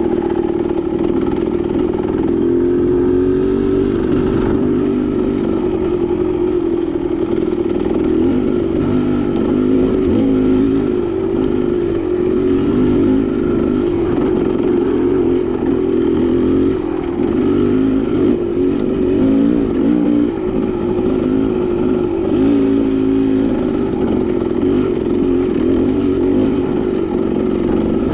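Dirt bike engine running while riding a rocky single-track trail, its pitch rising and falling with the throttle throughout.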